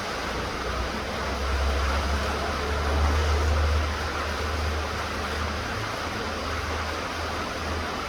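Steady rain falling, an even hiss. A low rumble swells from about a second in and fades by about four seconds.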